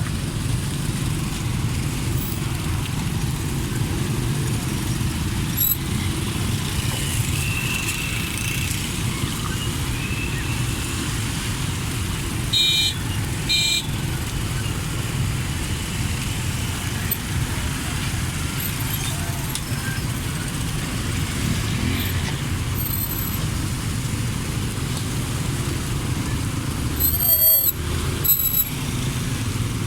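Steady low rumble of a river car ferry's engine under way. Short high beeps come twice about thirteen seconds in and again, louder, near the end.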